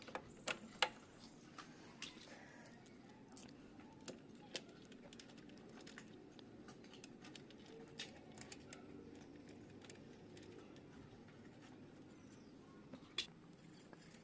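Scattered light clicks and taps of hand tools and small metal parts being handled, over a faint steady background.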